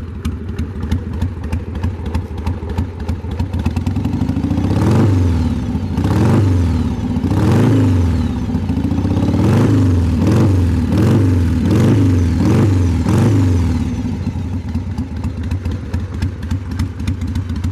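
1994 Harley-Davidson Sportster 883's Evolution V-twin with a Vance & Hines aftermarket exhaust, idling with a loping beat, then revved in a series of about nine quick throttle blips before settling back to idle.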